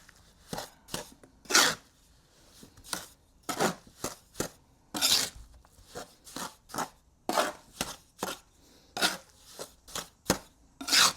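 Steel trowel scraping and chopping through wet mortar on a mixing board, in irregular strokes about one or two a second, some short and some drawn out as longer scrapes. The mortar is being worked to a stiffer mix with extra dry mortar.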